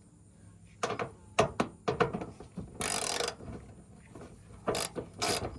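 Scattered sharp clicks and knocks of hand tools and plastic clips being handled while refitting engine-bay parts, with a short hissing rustle about three seconds in.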